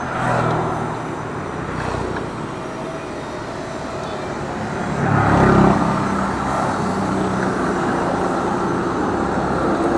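Motorcycle engine running, swelling louder about five seconds in, then settling back.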